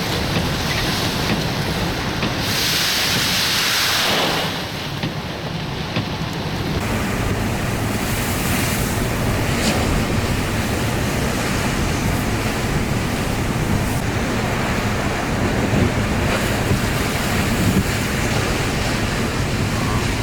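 Storm surf and high wind: a steady rush of breaking waves and wind, with wind buffeting the microphone. It swells to a louder rush about two and a half seconds in for a couple of seconds, then settles back.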